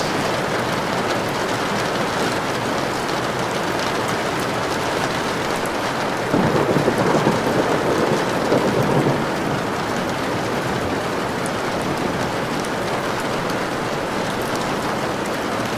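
Steady heavy rain, with a roll of thunder that starts suddenly about six seconds in and rumbles for about three seconds before fading back into the rain.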